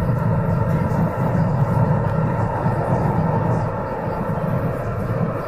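MTR South Island Line S-Train running at speed, heard from inside the car: a steady low rumble of wheels and running gear with faint steady tones above it. It eases slightly about four seconds in.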